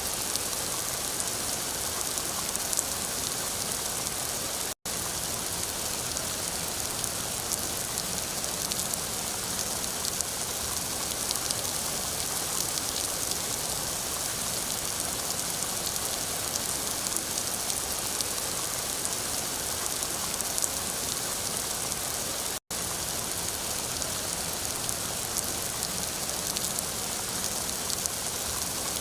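Steady rain falling, a dense patter of drops over a hiss that sits mostly in the high range. The sound cuts out for an instant twice, about 5 s and about 23 s in.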